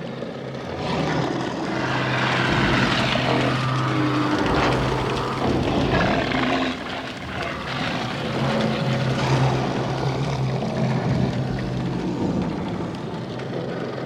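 Designed horror ambience: a steady low hum under dense, churning mechanical-sounding noise that swells and fades over several seconds.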